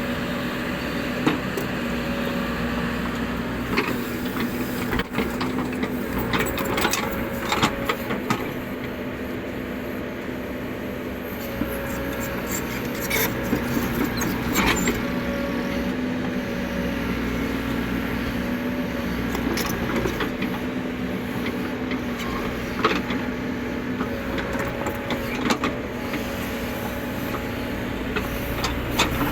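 Caterpillar 307E2 mini excavator's diesel engine running steadily, with scattered short knocks and clanks from the machine at work.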